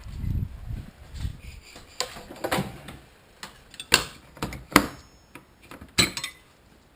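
Metal hand tools being handled, giving a series of sharp, separate clicks and clinks, the loudest a little past the middle, after a low rustle at the start.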